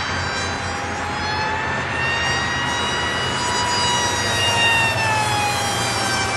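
Electric motor and propeller of an RC combat flying wing in flight, a steady whine that rises in pitch and then falls toward the end.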